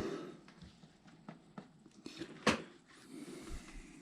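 Sparse light clicks and taps from plastic RC truck parts and tools being handled, with one sharper click about two and a half seconds in.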